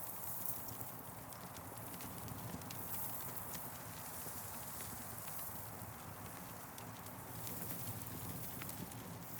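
Campfire crackling: scattered sharp pops and ticks over a steady hiss.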